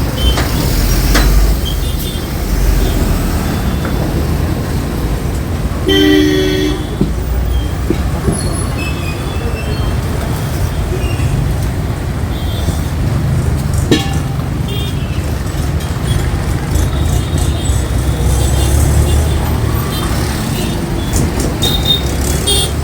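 Busy road traffic: a steady rumble of engines and tyres with horns honking on and off, the loudest horn blast about six seconds in.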